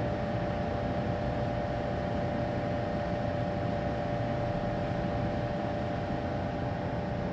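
Steady mechanical hum with a constant drone of a few fixed tones over even background noise, like a running motor or engine.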